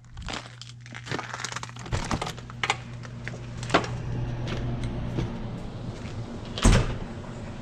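Scattered clicks and knocks over a steady low hum, with one heavy thump near the end.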